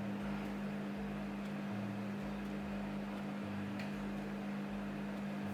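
Microwave oven running on high, a steady low hum.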